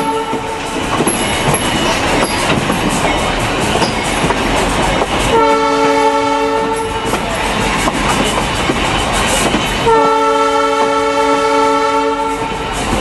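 Train horn sounding two long blasts, several notes at once, about five and ten seconds in, with the end of an earlier blast right at the start. Between the blasts the train's wheels rumble and clatter over the rails.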